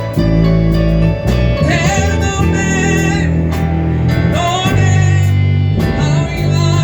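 Church worship band playing gospel-style music, with heavy sustained bass notes, a steady drum beat and guitar. A voice sings two phrases, one about a second and a half in and another past the middle.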